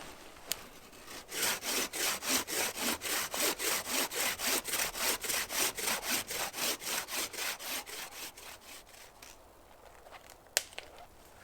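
Handmade wooden frame saw cutting through wood in quick, even back-and-forth strokes, about four a second, that start about a second in and fade out after about eight seconds. A single sharp click comes near the end.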